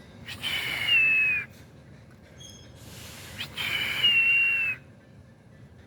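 A hawk screaming twice: two hoarse, raspy calls, each a little over a second long with a high tone that slides slightly downward. The second call comes about three seconds after the first.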